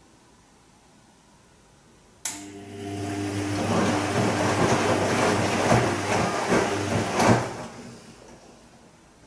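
Bosch Serie 2 VarioPerfect washing machine turning its drum briefly during the gentle Silk wash. It starts about two seconds in with a click, then the motor hums under the swish and slosh of water and laundry for about five seconds before slowing and stopping.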